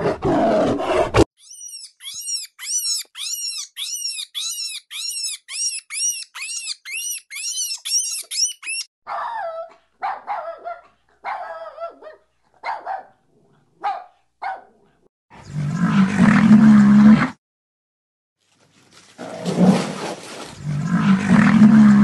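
A run of different animal calls: a brief rough call, then a steady series of rapid repeated high calls about two a second for several seconds, then scattered shorter calls, and two loud, low, roar-like calls in the last third.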